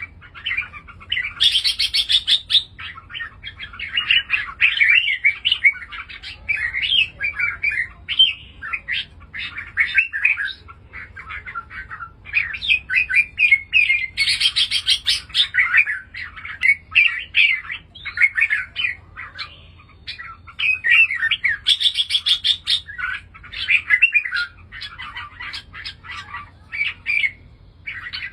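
Red-whiskered bulbul singing: a steady run of short chirpy phrases, with three louder, brighter phrases about two, fourteen and twenty-two seconds in.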